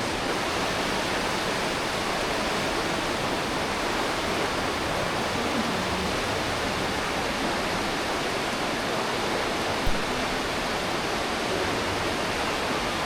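The Aare River's water rushing through the narrow rock gorge: a steady, dense, even rush. One brief thump about ten seconds in.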